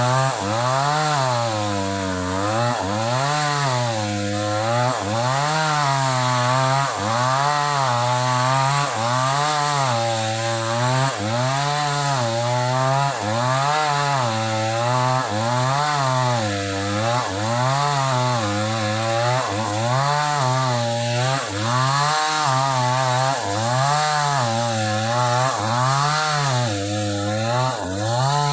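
Sumura CS6500S two-stroke chainsaw cutting through old wood, its engine pitch dropping and recovering in a steady cycle about every second and a half as the chain bites and eases. The engine sounds strained under the load of the hard old timber.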